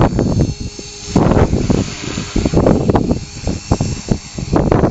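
Align T-Rex 450 Pro electric RC helicopter hovering just above the ground: a steady high motor and rotor whine under gusty, uneven rushing that buffets the microphone.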